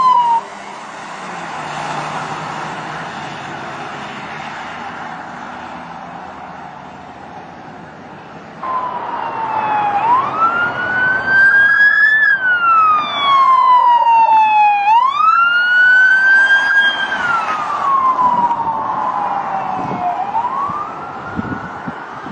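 Road and vehicle noise, then from about nine seconds in a police car siren wailing, sweeping slowly up and down in pitch, each rise and fall lasting a couple of seconds.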